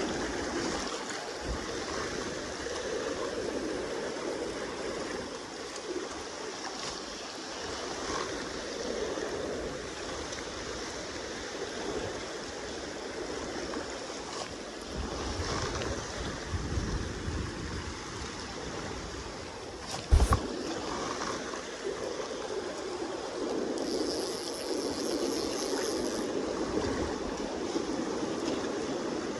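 Kenai River water rushing and boat-wake waves lapping against the bank, a steady wash of water. A single brief knock about twenty seconds in is the loudest sound.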